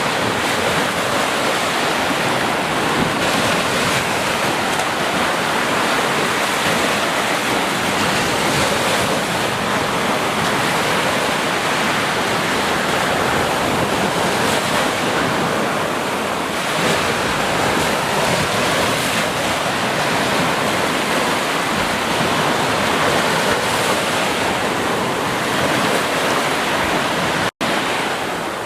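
Ocean surf breaking on a beach: a steady, continuous wash of waves with slow swells in level. It cuts out for a split second near the end.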